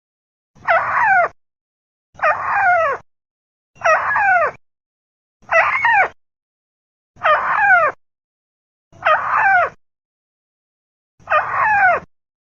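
Recorded lure call of a tikusan rail, played on a loop: seven harsh, descending calls, each under a second, coming about once every one and a half to two seconds.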